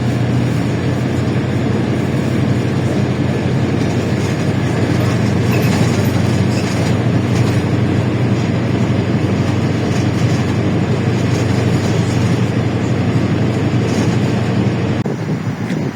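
LiAZ-677M bus on the move, its ZIL V8 petrol engine running steadily under a constant low drone, with road and body noise over it. Near the end the drone drops and the sound changes, as the engine eases off.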